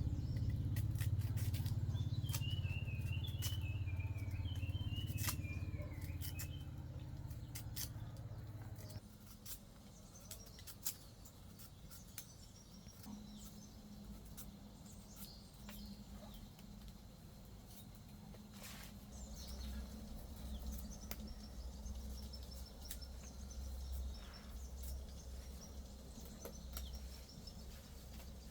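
Birds chirping outdoors, with scattered clicks, over a low rumble that stops suddenly about nine seconds in.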